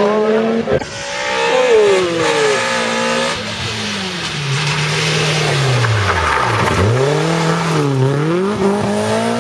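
Rally car engine revving hard, its pitch falling and climbing repeatedly, dipping to a low note about six to seven seconds in and rising again as it pulls away.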